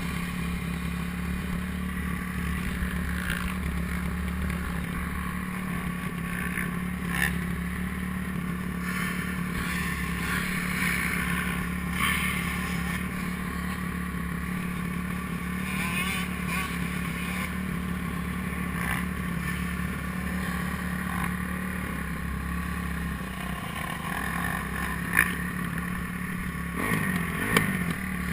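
Motocross motorcycle engines running steadily, with a few short sharp knocks, the loudest near the end.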